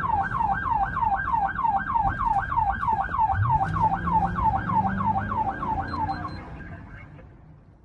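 LAPD police car siren in the fast yelp mode: a quick, repeating up-and-down sweep about three times a second that cuts off about six seconds in. A low hum joins about halfway through, and the sound fades away near the end.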